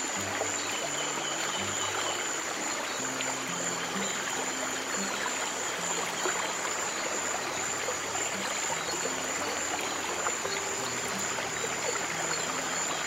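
Steady running water of a stream, with slow, soft low piano notes changing every second or so underneath and a thin steady high-pitched tone above.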